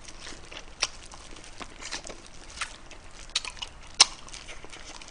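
A person chewing pieces of spicy braised pig's trotter (bul-jokbal), with a few sharp mouth smacks; the loudest comes about four seconds in.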